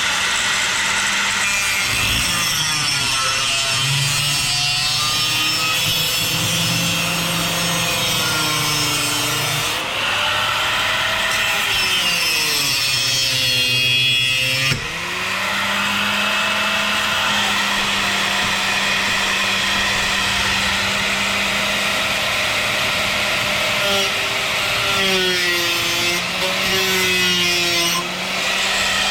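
Electric angle grinder with its disc grinding the end off a steel exhaust pipe. The motor's pitch sags and recovers several times as the disc is pressed into the metal.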